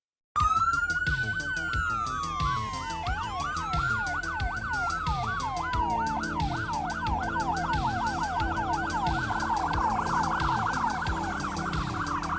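Several police car sirens sound together, starting abruptly about half a second in. Long rising-and-falling wails give way to fast overlapping yelps that grow denser toward the end, over a low repeating pulse.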